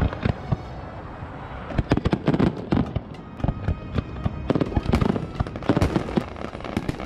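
Fireworks display: aerial shells bursting in rapid, overlapping bangs, thickest about two seconds in and again around five seconds in.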